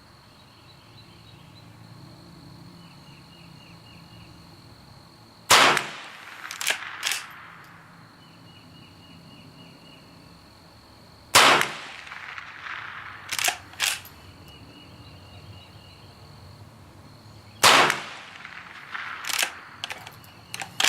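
Henry .22 lever-action rifle firing three single shots about six seconds apart. Each shot is followed a second or two later by a few lighter clacks as the lever is worked to chamber the next round. Insects trill steadily in the background.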